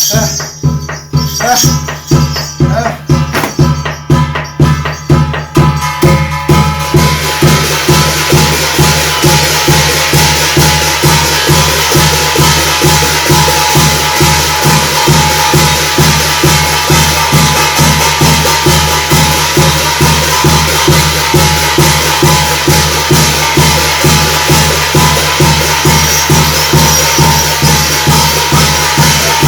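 Korean shamanic gut ritual music: a drum beating a fast, even rhythm. About seven seconds in, dense metallic jingling and a held high tone join it and carry on steadily.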